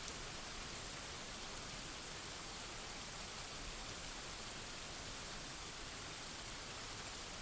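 Steady rain falling, an even hiss with no thunder claps.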